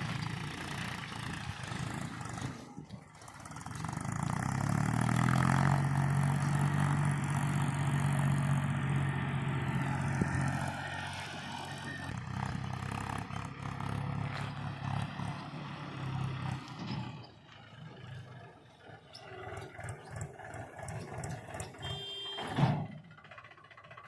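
Diesel engine of heavy machinery revving up about four seconds in and holding high revs under load for several seconds, then easing back to a lower, uneven running. A single sharp clank near the end.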